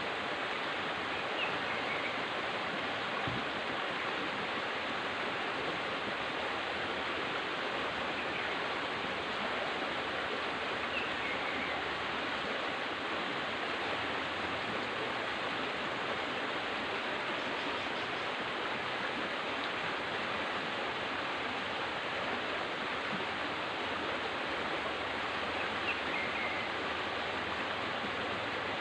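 River water flowing, a steady even rush without pauses.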